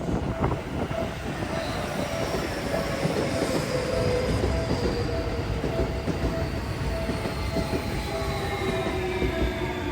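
A Japanese level-crossing bell ringing its steady repeated ding while an electric train passes. The wheels clack over rail joints near the start, and the train's motor whine falls slowly in pitch.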